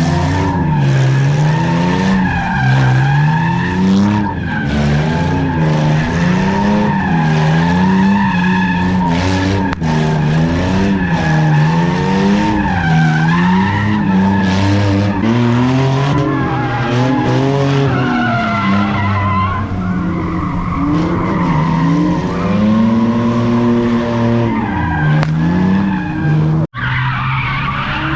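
Car engine revving up and down hard while the tyres squeal and skid, as in a burnout or donuts. The sound briefly cuts out near the end.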